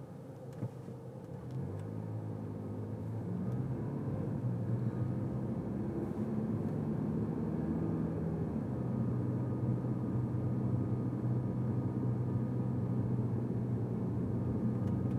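Car engine and road rumble heard from inside the cabin while driving, growing louder over the first few seconds as the car picks up speed, then running steadily.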